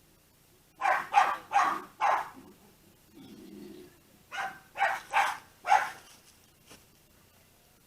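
Dog barking in two quick runs of four barks, with a short pause between.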